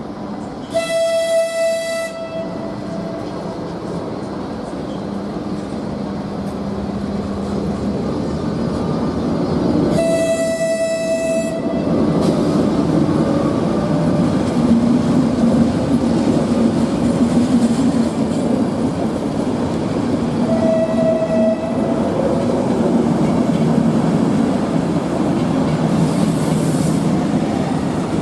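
A train running through the station, its rumble and rail clatter growing louder about halfway through. A train horn sounds three short single-note blasts about ten seconds apart.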